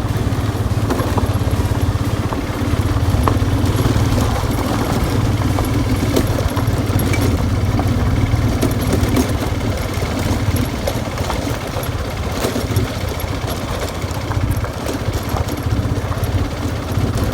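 Motorcycle engine running steadily under way, a dense low rumble that holds an even pitch throughout.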